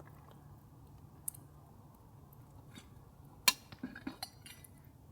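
Light clinks and knocks of utensils or cookware. A small click comes about a second in, and the loudest, sharp clink about three and a half seconds in, followed by a few smaller clinks, over a faint low steady rumble.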